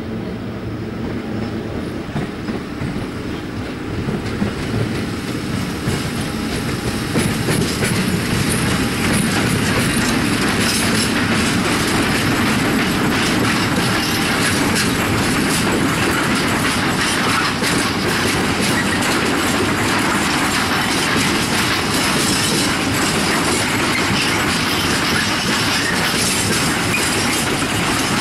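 A freight train of empty flat wagons passing close by, its wheels clattering rhythmically over the rail joints. It grows louder over the first several seconds, then holds a steady clatter as the wagons roll past.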